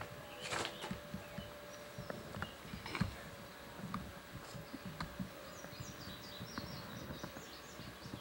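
Quiet ambient sound with scattered light knocks and clicks and a faint steady hum. In the last two to three seconds a small bird chirps a quick run of short high notes.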